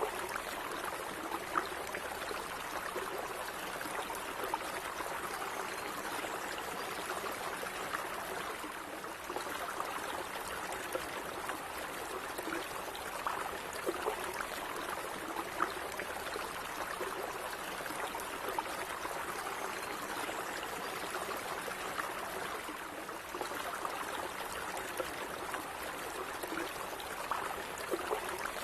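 A small stream of water running and trickling steadily over stones, with small splashes and gurgles scattered through it.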